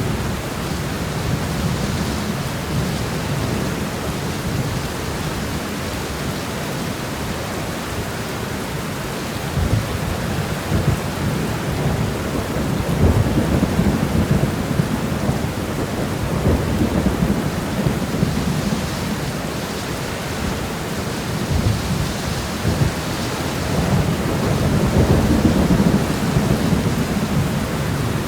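Steady rain shower with low rumbles of thunder, swelling about halfway through and again near the end.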